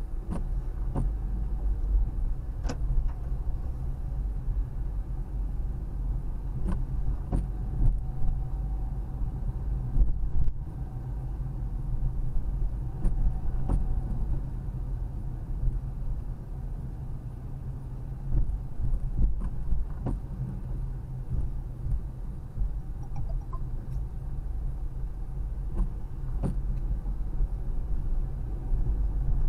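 Road noise inside a moving car: a steady low rumble, with scattered faint clicks.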